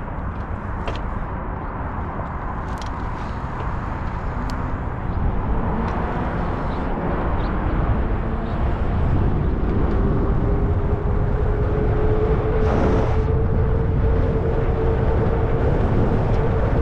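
Riding noise from a Zota Zephyr 20-inch fat-tire folding e-bike pulling away: wind rumble on the microphone and tyre noise that grow louder as it gathers speed. A few light ticks come early on, and about nine seconds in a thin whine sets in, rising slightly in pitch, then holding steady.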